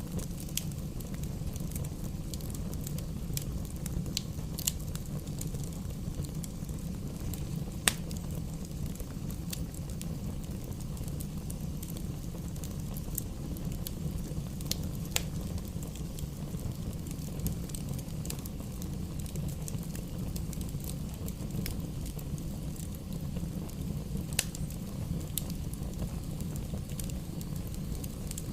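Wood campfire crackling, with scattered sharp pops of burning wood over a steady low rumble; the loudest pops come about 8, 15 and 24 seconds in.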